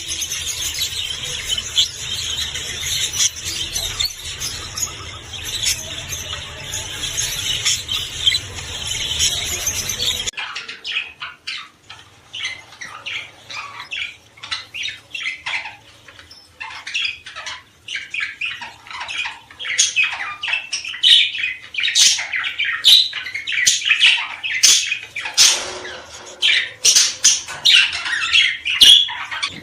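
Small songbirds singing: a dense, unbroken chorus over a hiss, which switches abruptly about ten seconds in to separate, rapid chirps and squawks that grow louder and busier toward the end.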